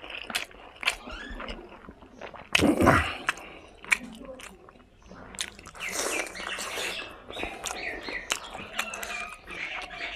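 Close-up eating sounds from a person eating fried pork and rice with his hands: wet chewing and lip-smacking with many sharp mouth clicks. One louder burst comes about two and a half seconds in.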